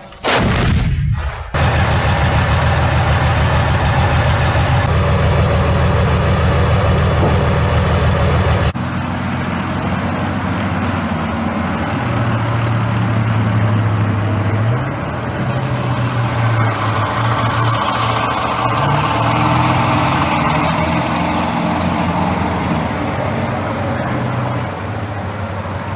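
A heavy vehicle's engine running steadily with a deep hum, just after a sudden loud bang at the very start. The engine sound changes abruptly about nine seconds in and shifts again later.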